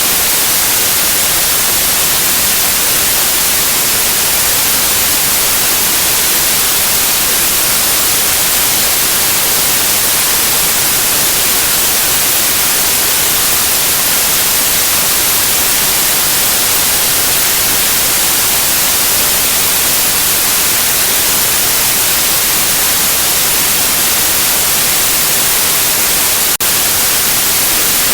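Steady white noise for baby sleep: an even, loud hiss, strongest in the high range. It is broken only by a brief dip and click near the end.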